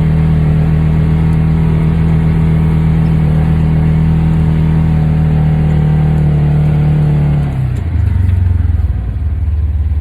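Polaris Ranger UTV engine held at steady high revs, pulling the vehicle up a snowy hill in four-wheel drive. About seven and a half seconds in the revs drop sharply as the throttle eases off.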